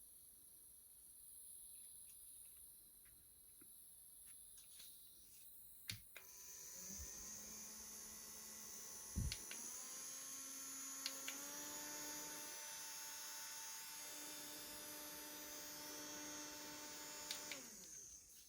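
Mini fan's small electric motor switched on with a click and whining steadily, its pitch stepping up twice as the button is clicked through the speed settings, then switched off with a click and spinning down.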